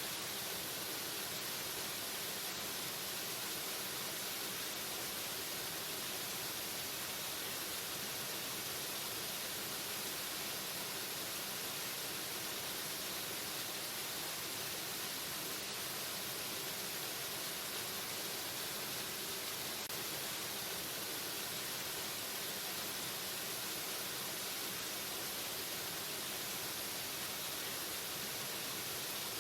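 Waterfall: a steady, unchanging rush of falling water, bright and hissy.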